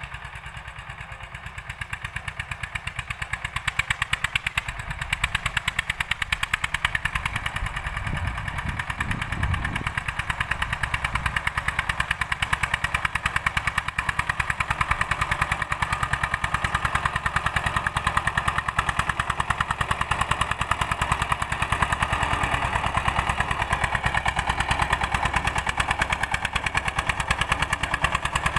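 Old-model Eicher tractor engine running steadily under load while cultivating, a rapid, even beat of firing strokes that grows a little louder about four seconds in.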